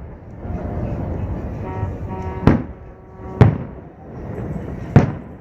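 Aerial fireworks bursting: three sharp booms, about two and a half, three and a half and five seconds in, over a continuous low rumble from the display. A held pitched tone sounds for about a second around two seconds in.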